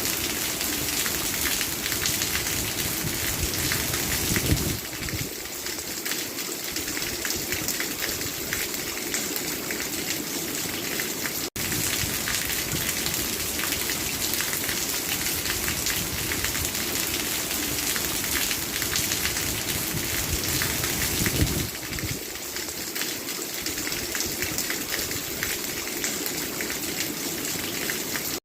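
Steady rain falling, an even hiss of many drops, with a brief low swell about four seconds in and again near the end, and a split-second dropout a little before halfway.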